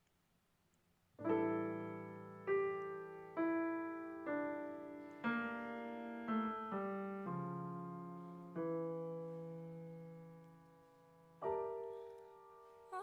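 Solo piano introduction: a series of struck chords, each left to ring and die away, starting about a second in, with a long held chord near the end before the voice enters.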